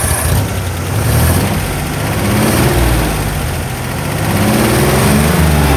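Engine of a 1952 Willys M38A1 Jeep running at idle, speeding up slightly a couple of times as the throttle linkage is worked, about halfway through and again near the end.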